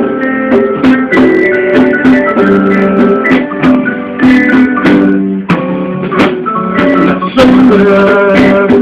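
Instrumental introduction of a band's song: melodic notes played over frequent percussive hits, before any singing.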